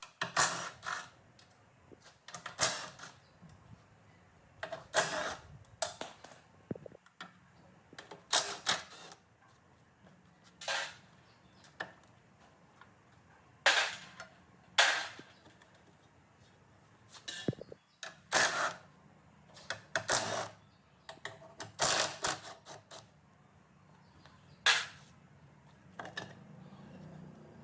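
Irregular sharp clicks and clanks of hand tools and metal parts being handled, a couple of dozen separate strikes with quiet gaps between them.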